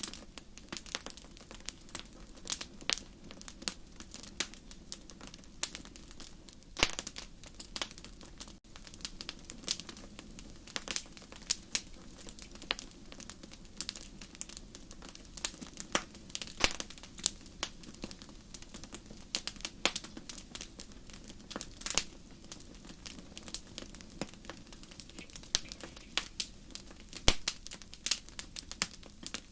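Wood fire burning in a fireplace: a steady low hiss under frequent irregular sharp crackles and pops, a few of them loud.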